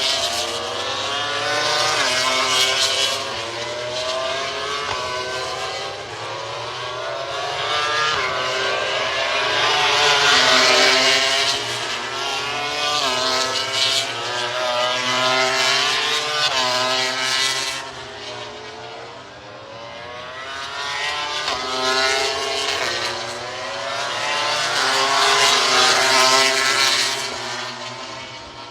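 MotoGP racing motorcycles' four-cylinder engines at full throttle, pitch climbing and dropping again and again through gear changes as bikes pass. The sound swells loudest several times and fades near the end.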